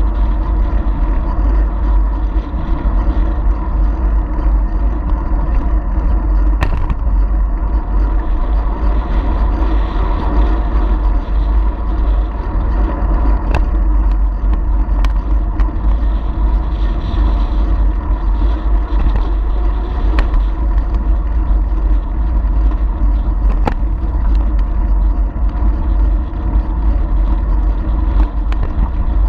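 Steady wind rumble and riding noise on a bicycle-mounted action camera's microphone while cycling, with a few sharp clicks scattered through.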